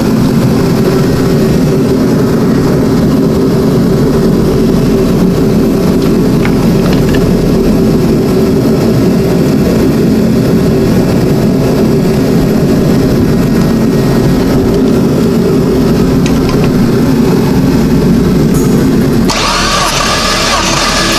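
Dodge Neon SRT4's 2.4-litre turbocharged four-cylinder being cranked over on the starter without firing, a steady rapid churning, for a cranking compression test on a stone-cold engine with a slightly weak battery. The cranking stops about 19 seconds in.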